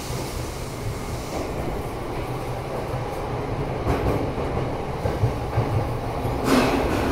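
Electric commuter train running, heard from inside the passenger car: a steady low rumble of wheels on rail with a few sharp knocks. It grows gradually louder, with a brighter rush of noise starting shortly before the end.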